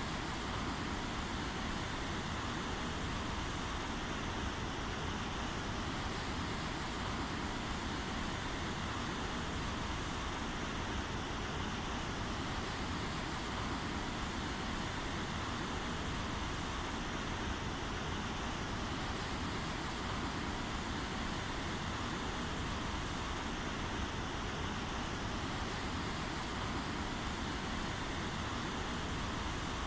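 Steady rainfall: an even hiss of falling rain that holds unchanged throughout, with no thunder or single drips standing out.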